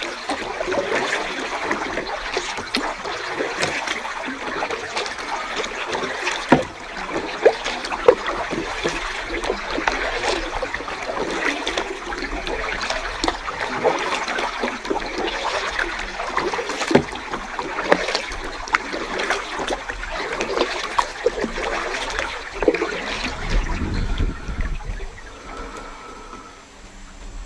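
Water splashing and trickling around a kayak being paddled, with a few sharp louder splashes about six to eight seconds in. It fades down near the end.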